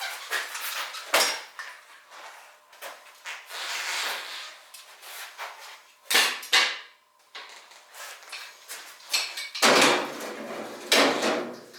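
A series of knocks and clatters, like hard objects being handled and set down in a small room. Near the end comes a longer rushing noise over a low hum.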